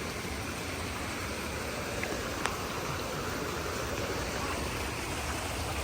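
Steady rushing hiss of stream water flowing over rocks, with one faint tick about two and a half seconds in.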